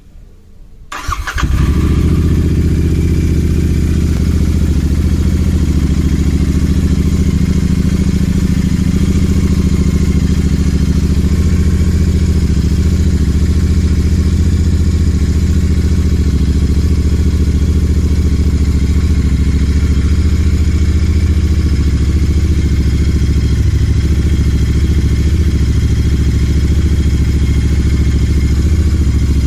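Royal Enfield Continental GT 650's parallel-twin engine starting about a second in and then idling steadily through an aftermarket MW Performance Trident exhaust.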